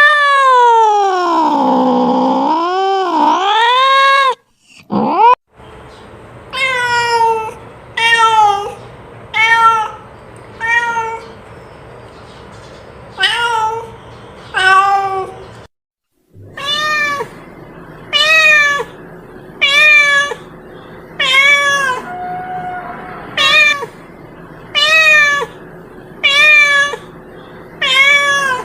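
Domestic cat meowing. It opens with one long yowl that dips and then rises in pitch, followed by a string of short meows about every second and a half. The sound cuts out briefly twice.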